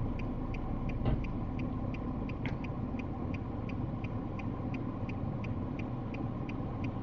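Steady low road and engine rumble heard from inside a car, with a light, even ticking about four times a second.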